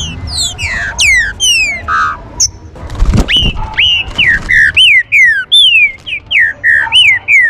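Green-winged saltator (trinca-ferro) calling: a series of loud whistled notes, each sliding downward in pitch, coming about twice a second in the second half. A short low thump sounds just before the run of notes starts.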